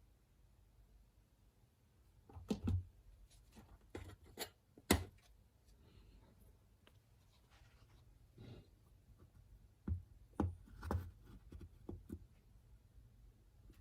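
Scattered sharp clicks and knocks of small objects being handled. The loudest comes about 5 seconds in, with another cluster near 10 to 11 seconds.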